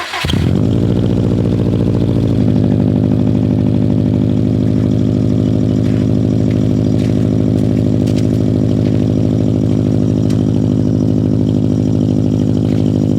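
Vehicle engine just started, running through an aftermarket exhaust with a single turbo-whistle insert in the tailpipe, settling from a slightly higher idle to a steady idle about two seconds in. Over the exhaust note the insert gives only a faint whistle.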